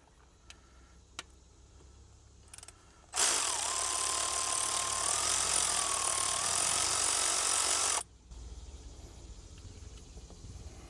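Power tool running for about five seconds, starting about three seconds in and stopping abruptly, as it turns a 13 mm alternator mounting bolt; its motor pitch wavers slightly. A few light clicks come before it.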